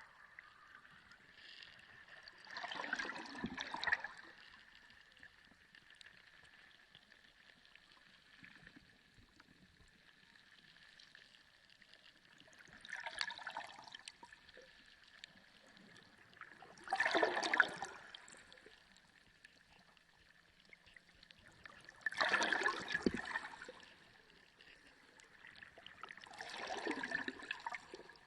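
Underwater sea sound: five surges of bubbling, swishing water, each one or two seconds long and a few seconds apart. Between them is a faint steady background with a thin, high, constant tone.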